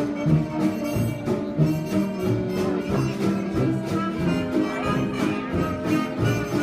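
Jazz-age dance orchestra playing an instrumental passage, with bowed strings and brass over a steady beat of low bass notes.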